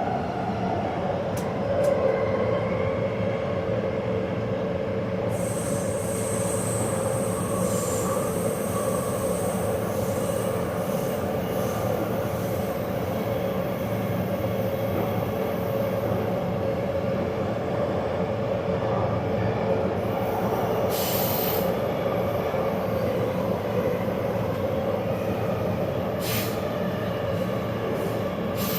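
Taipei Metro train running on the Zhonghe–Xinlu line: a steady rolling rumble with a held whining tone. A thin high whine comes in for a few seconds, and a short hiss sounds about two-thirds of the way through.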